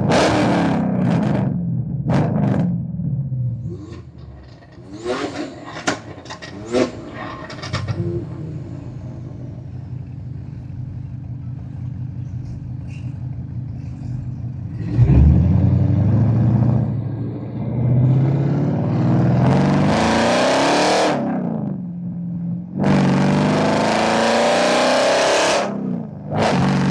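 ProCharger-supercharged Cadillac ATS-V engine being revved repeatedly. First come a few short throttle blips, then a steady idle for several seconds, then several longer, louder revs that rise and fall in the second half.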